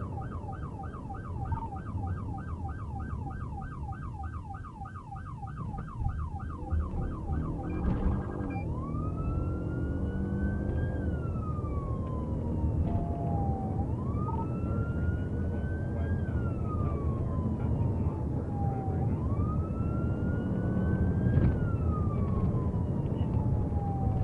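Police car siren over road and engine noise from a moving vehicle. For the first eight seconds it runs in a fast yelp, about three to four warbles a second. It then switches to a slow wail that rises and falls about every five seconds.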